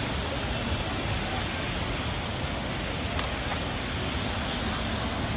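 Steady hiss of rain falling and of car tyres on a wet road.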